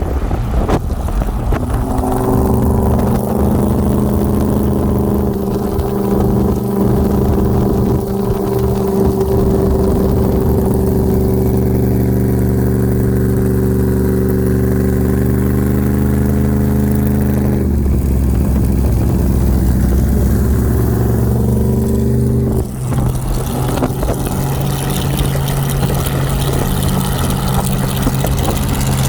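A vehicle engine running at a steady speed, its even hum changing abruptly about two-thirds of the way through and again a few seconds later.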